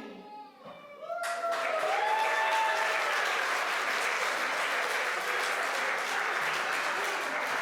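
The last notes of a sung song die away, and about a second in an audience breaks into applause that goes on steadily, with a few voices calling out over it near its start.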